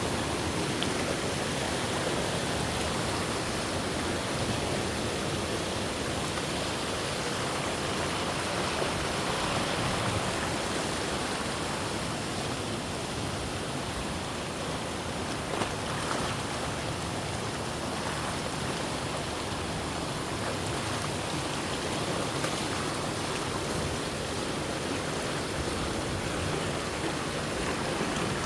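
Steady rush of flowing water, such as a forest stream or waterfall, with one faint click about halfway through.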